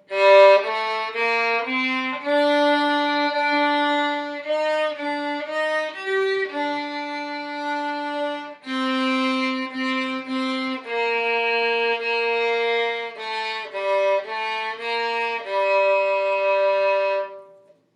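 Solo violin playing a slow melody in G minor as separate bowed notes, a beginner string-method exercise, ending on a held note.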